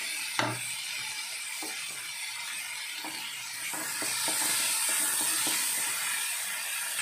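Chopped onion and tomato sizzling in hot oil in a kadhai on high flame, with a wooden spatula stirring and scraping the pan in light knocks. A sharper knock comes about half a second in, and the sizzle grows louder partway through.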